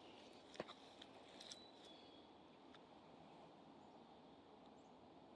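Near silence: faint outdoor ambience with a few soft clicks in the first two seconds and a faint high chirp about one and a half seconds in.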